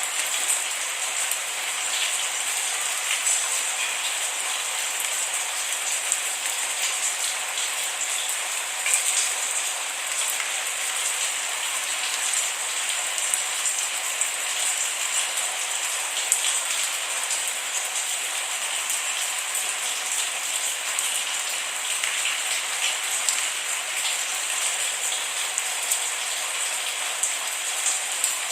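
Steady rain with no thunder: an even hiss of rainfall with many small crisp drop ticks pattering on a surface.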